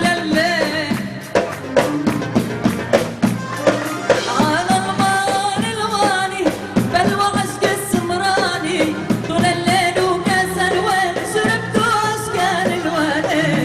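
A woman singing an Arabic song with band accompaniment and a steady, busy percussion beat.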